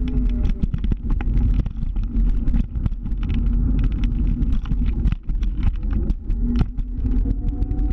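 Motor scooter engine running while riding, its pitch sagging in the first second and climbing again near the end, over a heavy low rumble with many short knocks.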